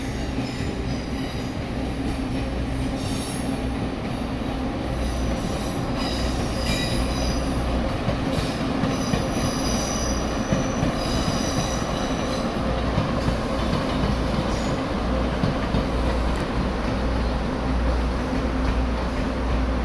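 A train running on rails with a steady low rumble. From a few seconds in until about halfway, the wheels give several high-pitched squeals that come and go.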